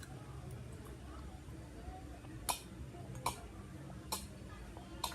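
Someone eating. From about halfway in there are four sharp clicks, roughly one every 0.8 s, over a low steady background hum.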